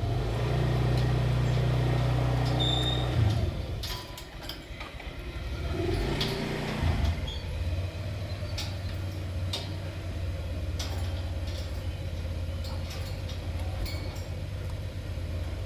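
A low, steady engine-like hum that stops about three seconds in and comes back steadier from about seven seconds in, with a few faint, short, high sounds scattered over it.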